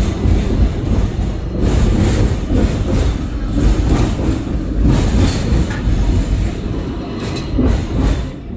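A rail vehicle running: a loud, dense low rumble with scattered clattering knocks.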